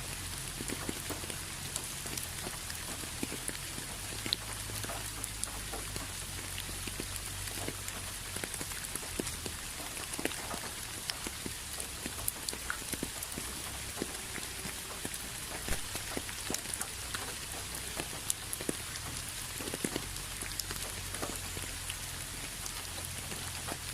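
Steady rain falling on a surface, with many separate drops ticking through an even hiss.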